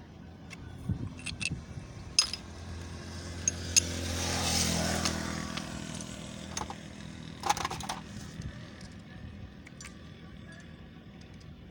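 Metal tools and parts clinking and clicking during motorcycle clutch-plate work, with a cluster of clinks about seven and a half seconds in. A vehicle engine swells up and fades away in the middle.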